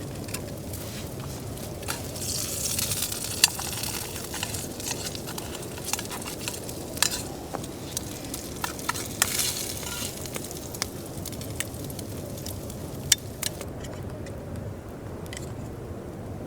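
Sizzling and crackling at a campfire, with many sharp clicks. Two stronger hissing surges come about two to three seconds in and again around nine seconds in.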